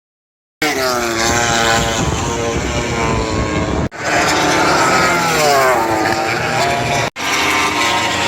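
MotoGP racing motorcycles passing at top speed, the engine note falling in pitch as each one goes by. Three flybys follow one another, each cut off sharply, after a brief silence at the start.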